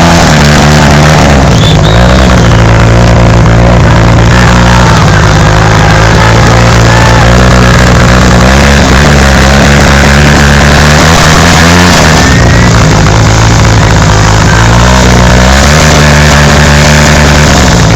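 Motorcycle and quad engines running, their pitch shifting up and down every few seconds as they rev and settle.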